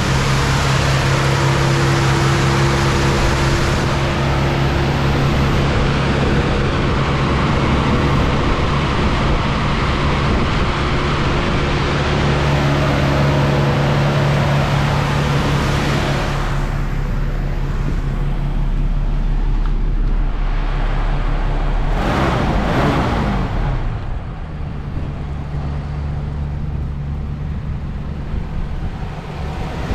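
1966 Ford Mustang's 289 V8 running steadily after a fresh start, smooth and without abnormal noises. About three quarters through, its pitch slides down and it settles to a quieter run.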